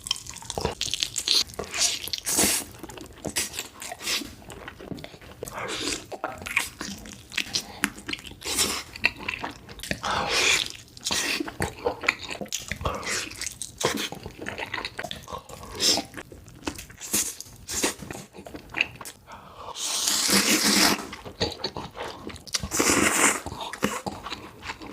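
Close-miked eating sounds: biting and chewing with crunches and wet mouth clicks as someone eats tteokbokki, ramen and chicken legs, with a few longer noisy stretches of about a second each.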